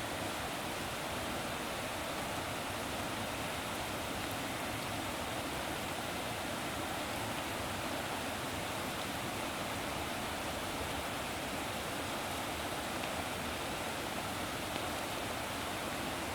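Steady, unbroken rush of water, even in level throughout.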